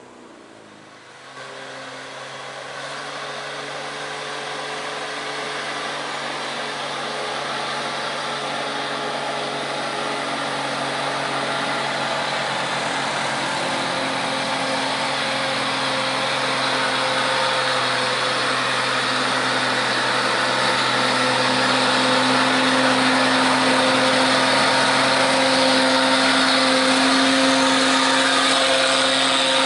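Heavy truck's diesel engine labouring uphill at a steady pitch, growing steadily louder as it approaches.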